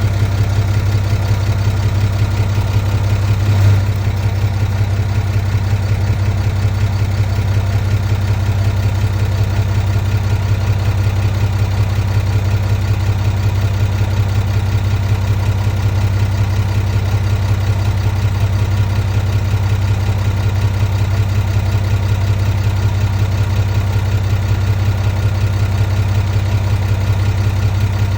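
Heavy construction machine's diesel engine running steadily at a constant low note, with one brief louder bump a little under four seconds in.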